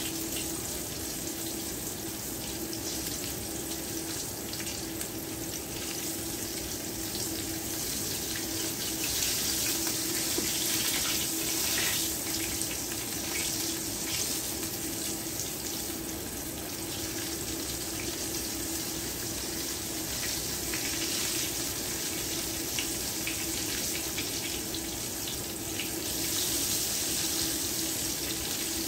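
Battered summer squash pieces sizzling and crackling in hot oil in a cast-iron skillet: a steady frying hiss that grows louder for a few seconds around the middle and again near the end.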